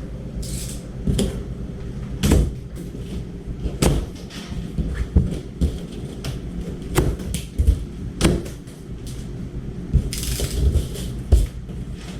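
Irregular knocks, clicks and scrapes of a new dishwasher's cardboard shipping carton and packing bands being worked open, with a short rustle about ten seconds in.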